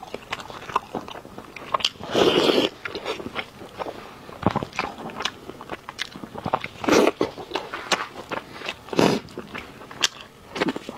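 Close-miked chewing and eating sounds from someone eating braised pork knuckle: a run of clicks and smacks, with louder bursts about two, seven and nine seconds in.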